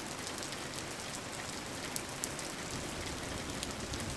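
Steady rain falling, an even hiss with many small scattered drop ticks; two slightly louder ticks come about halfway through.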